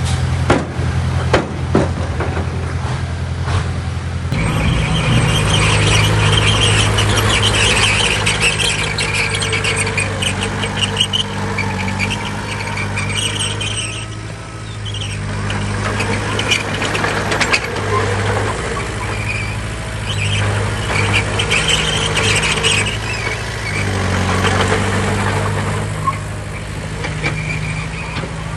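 Heavy diesel earthmoving machine running under load, with a high squeal that comes and goes. A few knocks in the first seconds, then the engine note changes about four seconds in.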